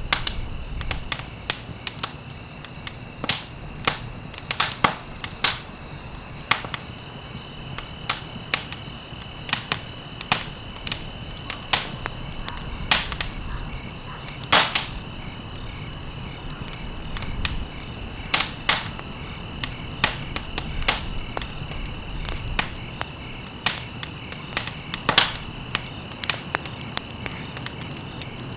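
Wood fire crackling, with irregular sharp pops, a few of them loud, over a low steady rumble. A steady high-pitched tone sits underneath.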